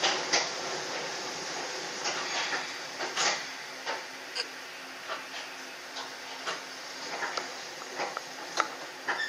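Hakone Tozan Railway electric train running slowly, heard from the driver's cab: a steady running hiss with scattered irregular clicks and knocks, and a low steady hum from about three seconds in.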